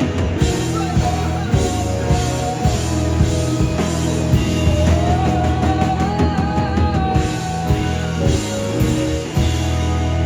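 A rock band playing live, with a drum kit, bass and electric guitars. A lead melody bends up and down in pitch over the steady beat.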